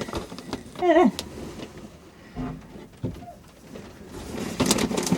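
A hen gives one short, wavering squawk about a second in. Soft knocks follow, then a burst of rustling and clatter near the end.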